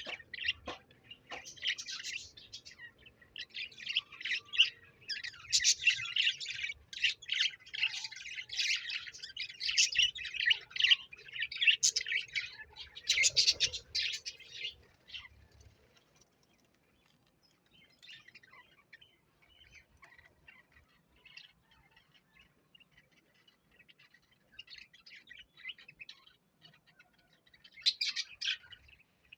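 Parrot chirping and chattering in dense, rapid, high-pitched runs for about fifteen seconds, then fainter scattered chirps, with a short louder burst of chirps near the end.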